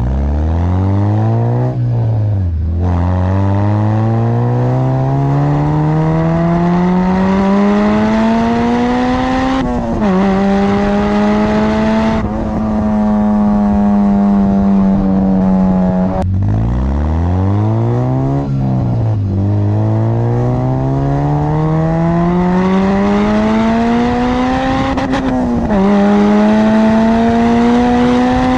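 Honda Civic Type R EP3's 2.0-litre four-cylinder VTEC engine, heard through a well-baffled exhaust, accelerating hard: the revs climb and drop back sharply at several upshifts. There is a stretch of steady cruising in the middle, then the revs fall away and build again.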